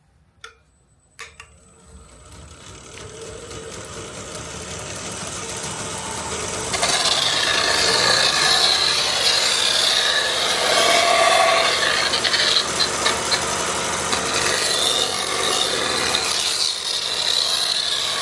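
2x72 belt grinder switched on with a click about a second in, its motor and belt spinning up with a rising hiss. About seven seconds in the sanding belt bites into the cut edge of a fiber-metal welding hood, deburring it, with a loud rough rasp that carries on.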